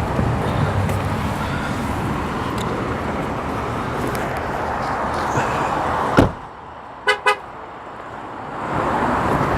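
Outdoor traffic noise, then a pickup truck's door shuts with one sharp thud about six seconds in, cutting the outside noise to a muffled hush. Two short beeps follow a second later. The outside noise comes back near the end.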